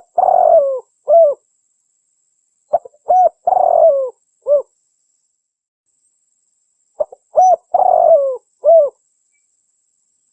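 Spotted dove (tekukur) cooing, a recorded lure call: the same phrase repeats about every four seconds, a couple of short notes, then a long falling coo and one last short note, with silence between phrases.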